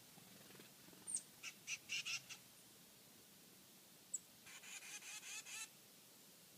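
Birds calling: a short high chirp, then a quick run of calls, then another chirp followed by a longer chattering run.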